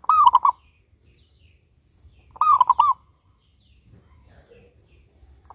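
Zebra dove (perkutut) singing its cooing song: a short phrase of about four quick notes, repeated about every two and a half seconds, three times.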